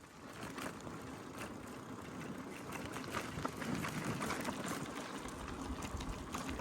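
Gravel bike rolling along a dirt road: steady tyre noise with many small scattered ticks and rattles, building up over the first second.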